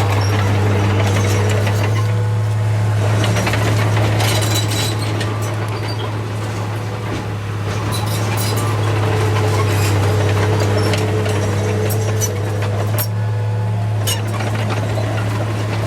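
Heavy diesel earthmoving machine running steadily with a constant low engine drone, over intermittent knocks and clatter.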